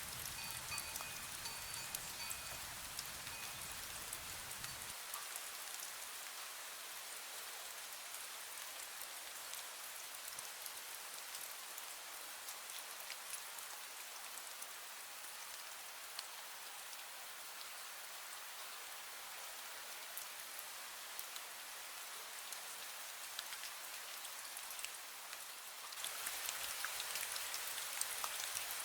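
Steady light rain with fine drips pattering on surfaces. A wind bell rings faintly at the start, its few clear tones dying away within about three seconds. Near the end the rain turns suddenly louder and brighter.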